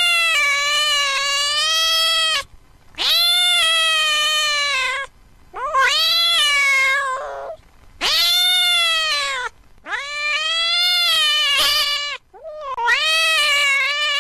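A domestic cat meowing over and over: six long, drawn-out meows of about two seconds each, with short pauses between them.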